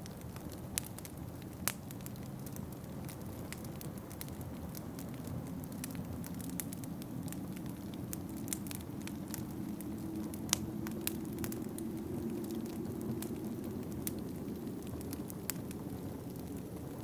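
Wood fire crackling in a fireplace, with irregular sharp pops and snaps, over a steady low rush of wind that swells a little midway.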